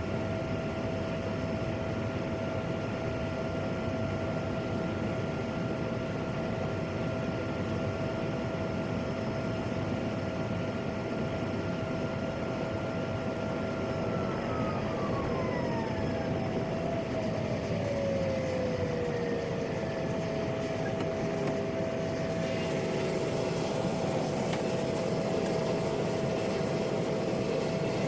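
PAC 750XL turboprop's turbine engine heard from the cockpit, a steady whine over engine noise. About halfway through, one tone of the whine slides down in pitch over several seconds as the engine winds down.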